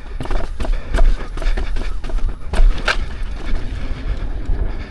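Off-road electric unicycle being ridden over rough trail: a steady rumble of wind on the microphone with irregular sharp knocks and rattles from the wheel and suspension over bumps, the loudest about a second in and near the middle.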